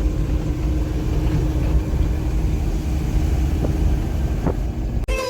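Suzuki Grand Vitara engine running, freshly reassembled after a head gasket replacement: a steady low rumble with a faint constant hum above it. It cuts off suddenly near the end.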